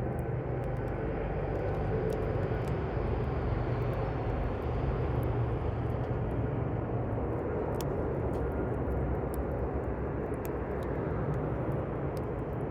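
Campfire burning: a steady low rush with scattered sharp crackles and pops from the burning wood.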